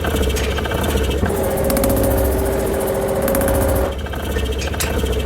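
Power hammer forging hot bar stock, its motor humming under rapid blows. The blows ease off just over a second in, leaving the machine running with a steady tone, and start again near the end.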